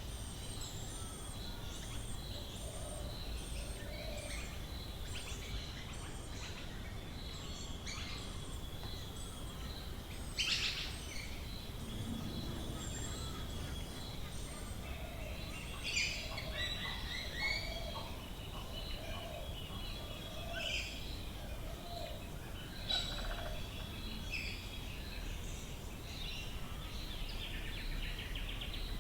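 Australian bush birds calling in a morning chorus: many overlapping chirps and calls. A thin high note repeats about twice a second through the first part, with louder chirps breaking in a few times, over a steady low rumble.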